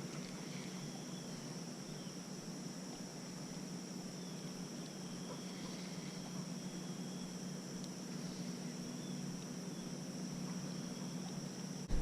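Insects chirring in a steady high drone outdoors, with a steady low hum beneath it and a few short, faint chirps.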